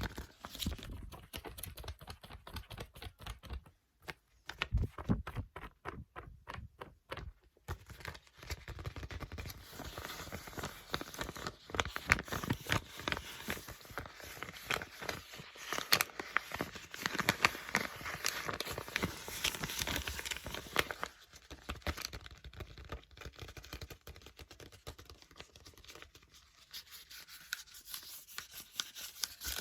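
Paper book pages being flipped and turned by hand: rapid riffling with crisp flicks and rustles, broken by a few short pauses.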